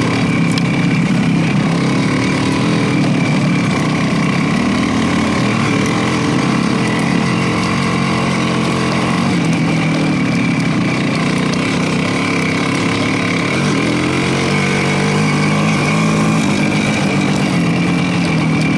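Motorcycle engine running while riding, its pitch rising and falling with the throttle, with a steady rush of wind and road noise.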